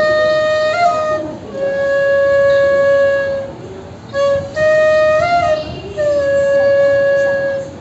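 A six-hole straight flute playing a slow phrase twice. Each time a held note with a brief upward flick is followed by a long, slightly lower held note.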